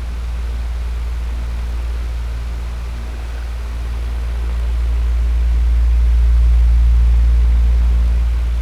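Electric fan running steadily: a deep low hum under an even rush of air. It slowly swells louder about two-thirds of the way through, then eases back.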